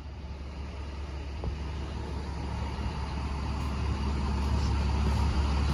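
Box truck's engine idling with a steady low rumble, growing louder over the few seconds.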